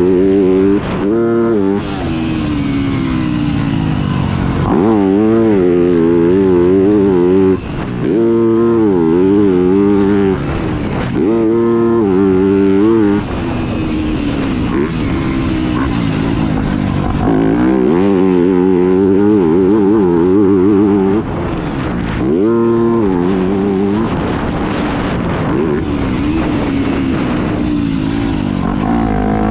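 Yamaha YZ250F's four-stroke single-cylinder engine being ridden hard, the pitch climbing and falling again and again as the throttle is opened and closed through the gears, with a few sudden throttle chops.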